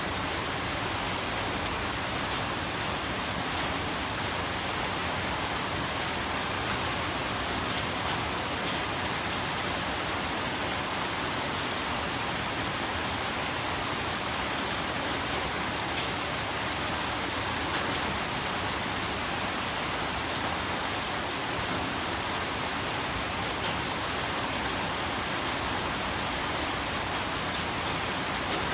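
Steady rain falling on a surface, a constant hiss with a few sharper drop hits now and then.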